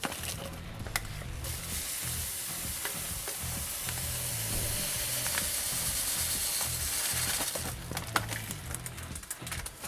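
A steady sizzling hiss with a few sharp clicks, over a faint low rhythmic bed.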